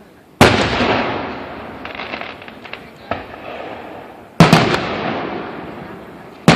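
Aerial fireworks shells bursting: three loud booms, one shortly after the start, one about four seconds later and one at the very end, each trailing off in a long rolling echo. A few small crackling pops are heard between the first two booms.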